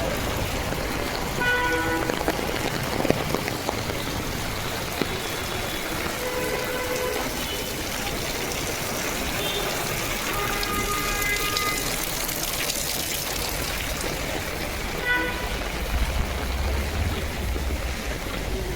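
Steady rain falling on the street, with brief vehicle horn toots sounding about four times. A low rumble of passing traffic rises near the end.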